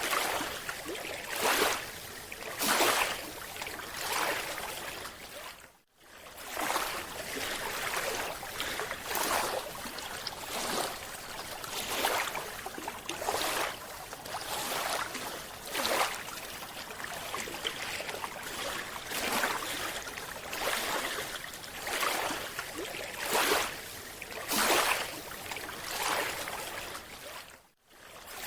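Water noise that swells into a whoosh about every second and a half, broken by two brief drops to near silence.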